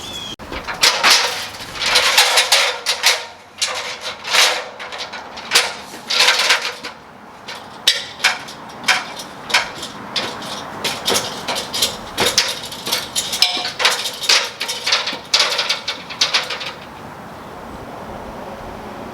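Irregular hammering, knocking and clattering of repair work on a roof edge's wooden fascia and aluminum trim, a quick run of sharp impacts that stops about seventeen seconds in.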